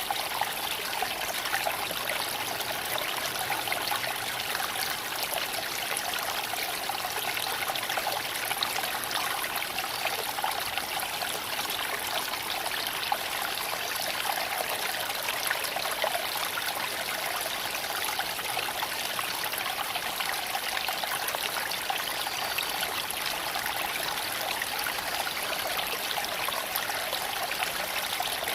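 Creek water flowing and trickling over stones in a steady rush, with scattered small clicks and splashes.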